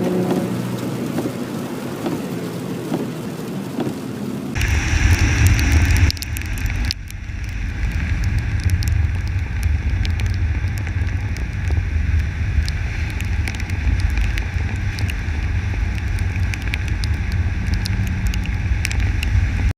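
The Mustang's engine runs at low revs for the first few seconds. About four and a half seconds in, the sound changes abruptly to a steady low rumble peppered with many sharp ticks of heavy rain striking the camera.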